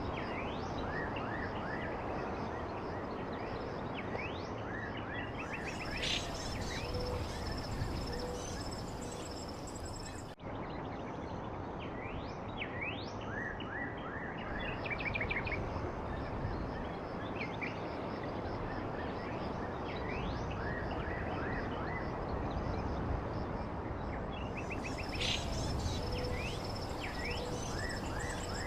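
Small birds chirping, quick falling chirps and short rapid trills, over a steady rushing background noise. The sound cuts out for an instant about ten seconds in.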